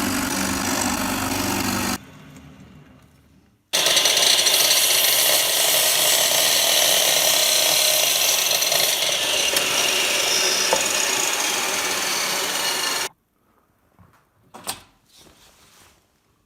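Drill press boring into a wooden block. The motor runs for about two seconds and winds down, then starts again and the bit cuts steadily into the wood for about nine seconds before stopping abruptly. A few light knocks follow near the end.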